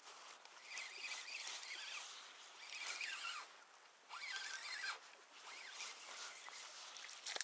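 Faint bird calls: short chirps that slide in pitch, coming every second or so over a quiet hiss.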